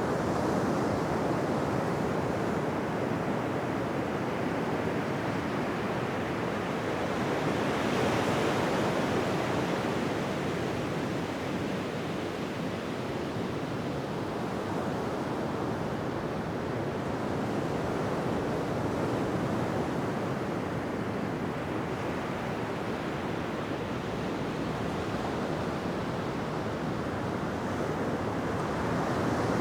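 Ocean surf washing onto a beach: a continuous wash of waves that swells and eases slowly, with a broader surge about eight seconds in and again near the end.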